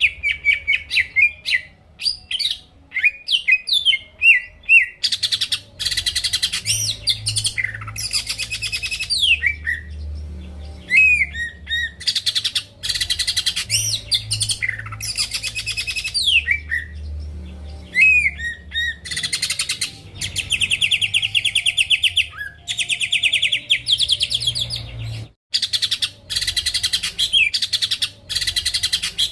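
Cucak ijo (green leafbird) in full song: a varied, nearly unbroken run of sharp chirps, fast trills and gliding whistles, with a brief break near the end.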